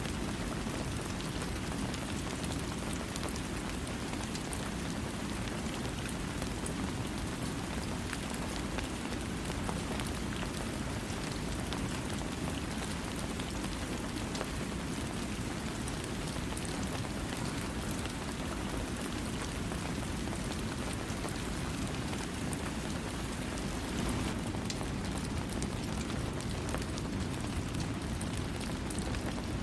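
Steady rain falling, an even wash of noise with a strong low rumble and scattered sharp drop ticks, without thunder.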